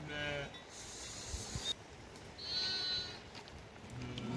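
Sheep bleating: one bleat trails off at the start, and a second, higher-pitched bleat comes about two and a half seconds in.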